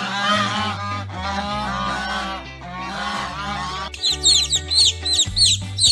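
Goose honking repeatedly, a string of falling honks, over background music. About four seconds in, a fast run of short, high chirps takes over.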